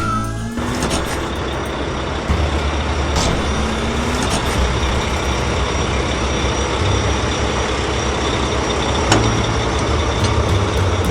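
A heavy truck engine running steadily, with a low hum under a noisy rumble and a few short clicks.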